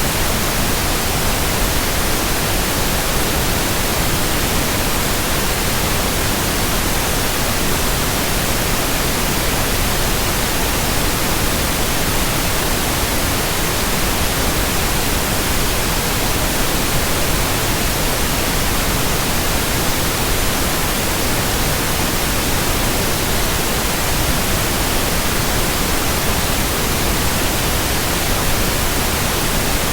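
Steady, unchanging white noise: an even hiss spread across all pitches at constant loudness, with no hum, whoosh or rhythm in it.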